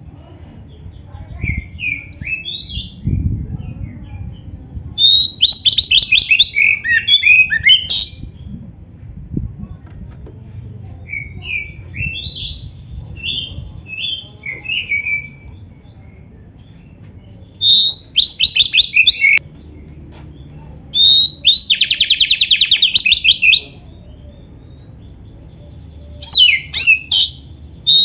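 Oriental magpie-robin (kacer) singing loudly in separate phrases. Slurred whistled notes alternate with fast, rattling trills, with short pauses between the phrases.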